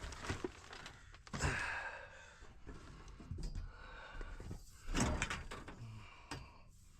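Plastic storage totes being lifted and shifted, giving a few thumps and knocks, the loudest about a second and a half in and again about five seconds in.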